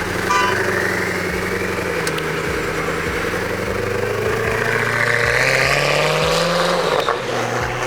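Car engine running under throttle, its pitch climbing to a peak about five or six seconds in and dropping away near the end.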